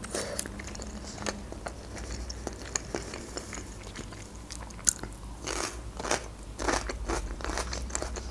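Close-miked chewing of a mouthful of baked lasagna: soft, wet clicks and smacks of the mouth, growing busier and louder in the second half.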